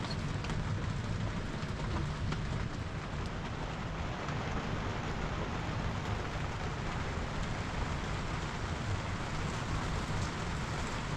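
Steady rainfall, an even hiss with a heavy low rumble beneath it and scattered drop ticks.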